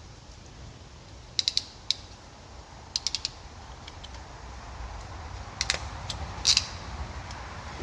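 Hand crimping tool clicking in short quick clusters as it is squeezed onto a bullet connector on the fan wiring.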